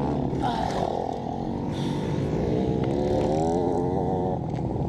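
Motocross bike engine running, its pitch wavering up and down as the throttle is worked, and climbing between about two and four seconds in.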